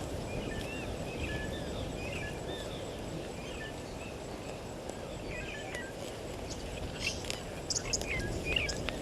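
Several birds calling with short chirps and whistles over a steady low background noise, with a few sharp ticks near the end.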